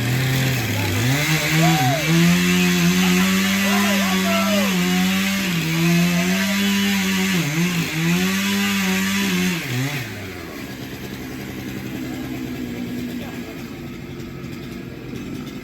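Two-stroke chainsaw running at high revs while cutting, its pitch sagging and recovering several times as the chain bites into the wood. About ten seconds in it eases off and runs on more quietly.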